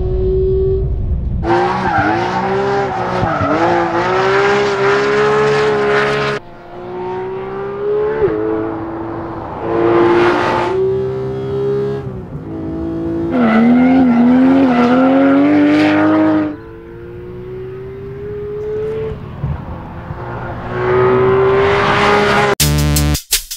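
2018 Porsche 911 GT3's naturally aspirated 4.0-litre flat-six at high revs under hard acceleration, its pitch climbing and dropping with gear changes, in several clips joined by abrupt cuts. Electronic music with a drum beat comes in near the end.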